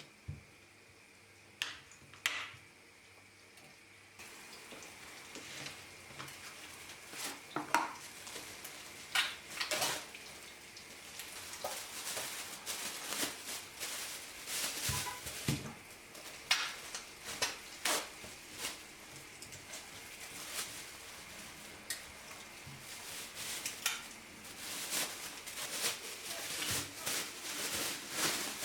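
Food sizzling in a frying pan, with a utensil repeatedly clinking and scraping against the pan and dishes. The sizzle comes in about four seconds in.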